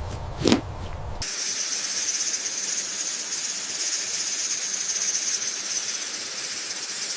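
A couple of soft low thumps, then a sudden change about a second in to a steady high-pitched hiss.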